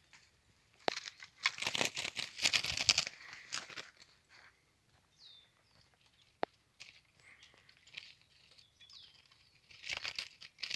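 A bird fluttering and beating its wings inside a wooden slat cage, heard as bouts of rustling wing flaps, one long bout early and another near the end. Between them come a short high chirp and a single sharp click.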